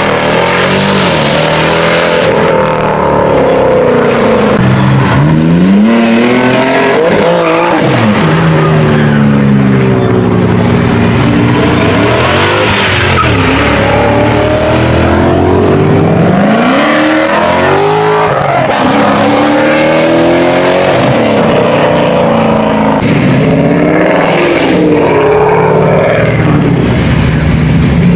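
Car engines revving hard and accelerating, their pitch climbing and dropping again and again as cars pull away one after another.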